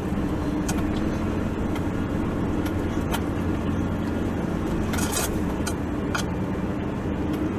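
Four-wheel-drive vehicle heard from inside the cabin, driving on a rough, ungraded sand track: a steady engine and tyre drone, with a few short knocks from bumps, the strongest about five seconds in.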